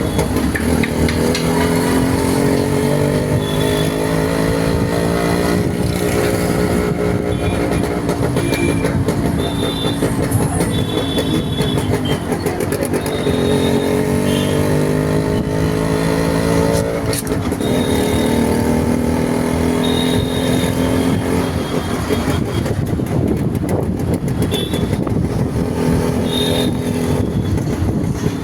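Motorcycle engine running on the move, its pitch rising and falling slowly several times with the throttle, over steady road and wind noise.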